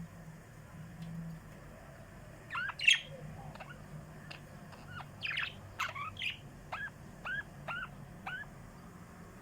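Small pet birds chirping: a loud call about three seconds in, then a run of short, repeated chirps, about two a second, that stops about a second before the end. A faint low steady hum runs underneath.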